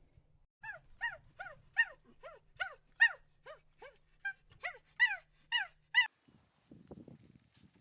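A dog giving a rapid series of short, high, yelping whimpers, each call falling in pitch, about fourteen in a row. The calls stop near the end, where a faint low rustling begins.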